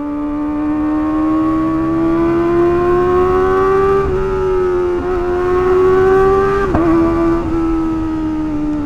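Kawasaki ZX-25R's 249 cc inline-four engine pulling on the road, its high note rising slowly. There are two brief dips in pitch, about four and seven seconds in, and the note eases off near the end.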